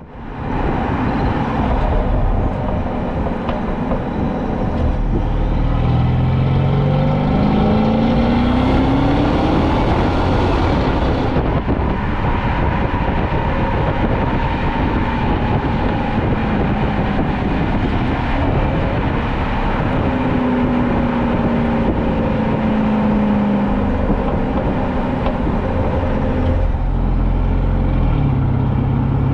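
Mercedes-Benz S550 (W222) twin-turbo V8 with its exhaust resonators deleted, driving under power: the engine note climbs as it pulls through a gear, changes sharply about eleven seconds in, climbs again later and settles lower near the end, over a steady exhaust and road rumble.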